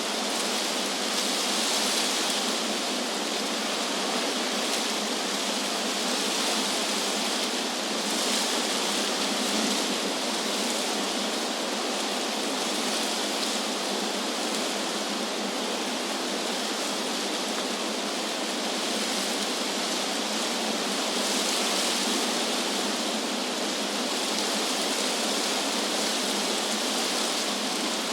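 Wind blowing through trees: a steady rustling hiss of leaves that swells a little now and then.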